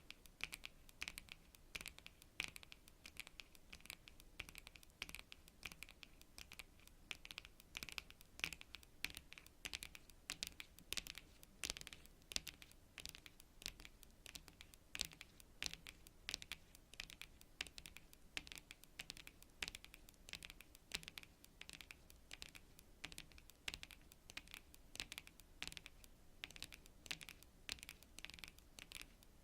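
Long natural fingernails tapping rapidly on cards: quick, irregular clicks, several a second.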